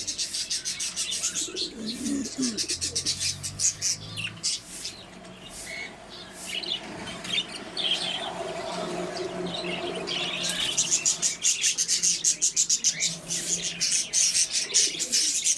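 Many small birds chirping rapidly and continuously, thickest in the last few seconds, with a low coo about two to four seconds in.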